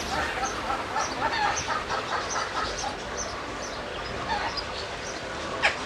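Aviary birds chirping and chattering, many short overlapping calls, with a loud sharp call sweeping steeply downward in pitch near the end.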